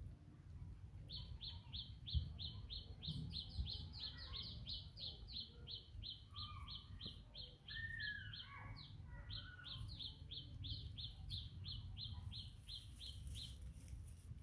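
A bird calling in a long, even run of short high chirps, about four a second, with a brief pause midway. A few lower gliding calls sound in the middle, over a steady low rumble, with one low bump about two seconds in.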